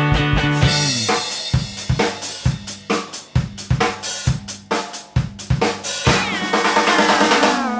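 Instrumental break in a psychedelic rock song: the full band drops away about a second in, leaving mainly a drum kit (kick, snare, hi-hat and cymbals) with a few sparse held notes. Near the end a sliding tone falls in pitch.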